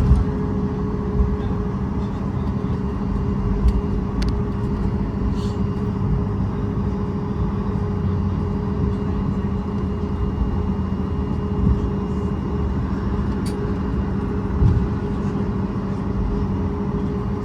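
Steady low rumble of a vehicle interior with a constant droning hum and a few faint clicks.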